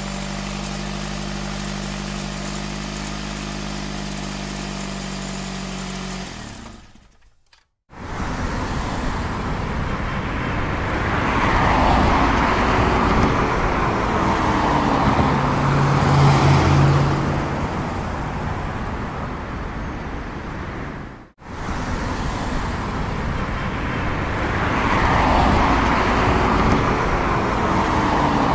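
A vehicle engine idling with a steady hum, fading out about seven seconds in. After a brief silence, passing-traffic road noise swells and fades twice, broken by a sudden cut about two-thirds of the way through.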